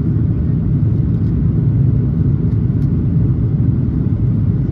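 Steady low rumble of engine and airflow noise inside the cabin of an Airbus A330-300 airliner.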